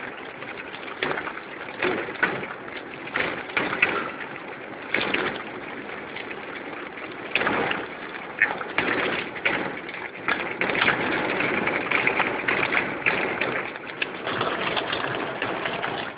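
Car driving through a rainstorm, heard from inside the cabin: steady tyre and road noise on the wet road with irregular swells of rain and spray.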